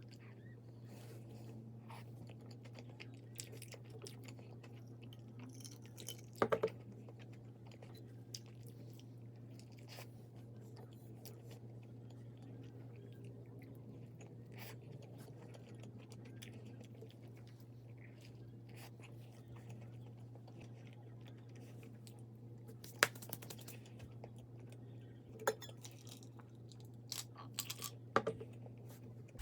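A person chewing and crunching food, with a few sharp clicks of utensils or dishes, over a steady low hum.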